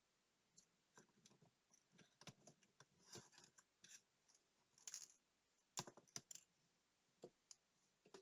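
Faint, irregular small clicks, taps and short scrapes of tools and tiny metal and plastic parts being handled while a digital wristwatch is worked on. The sharpest clicks come about five and six seconds in.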